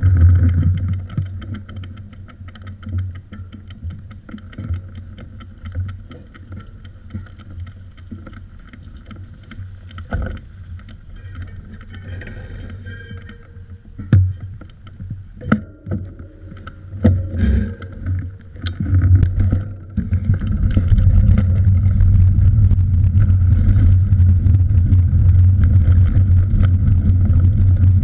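Low rumble of wind on the microphone of a moving cyclist's camera. It is loud at first, drops to a quieter stretch with scattered sharp clicks and knocks, and about twenty seconds in becomes a steady loud rumble again.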